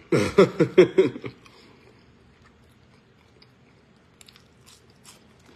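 A man chewing a french fry: faint, soft biting and mouth clicks, scattered through a quiet stretch and a little more frequent near the end.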